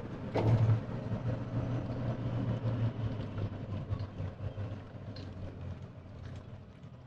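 A motor running with a steady low hum that slowly fades, with a single knock about half a second in.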